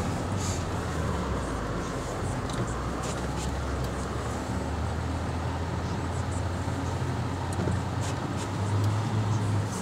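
A car engine running and tyres rolling through snow, heard from inside the car's cabin while driving slowly. It is a steady low drone that grows louder briefly near the end.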